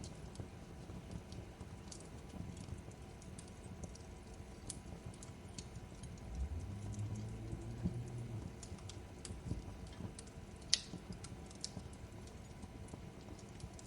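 Crackling fireplace: irregular small pops and snaps from burning wood over a low rumble, with one louder pop near the end.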